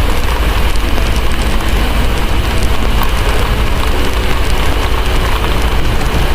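Steady heavy rain over a deep low rumble, with small scattered crackles of a wood fire in a fireplace.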